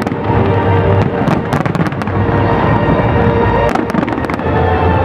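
Fireworks display: aerial shells bursting in repeated bangs and crackling, with music playing underneath.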